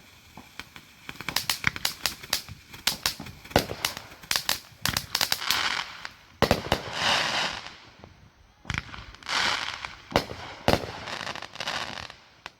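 Consumer fireworks going off: quick runs of sharp crackling pops, with two hissing bursts, one about halfway through and one later.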